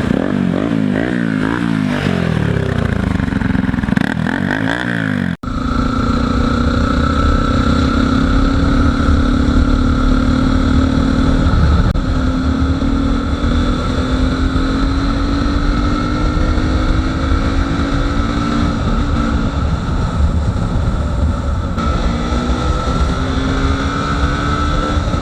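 Bajaj Pulsar NS200's single-cylinder engine through an aftermarket Akrapovic-style slip-on exhaust with a stainless steel bend pipe, revved up and down repeatedly for about five seconds. After a sudden break, the engine runs under way, its note climbing slowly and dropping back a few times as it shifts up.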